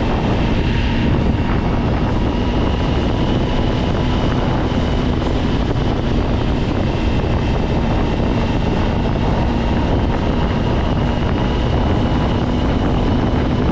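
Kawasaki ZX-10R's inline-four engine running at a steady cruise, mixed with heavy wind and road noise while riding. The engine note holds steady with no revving.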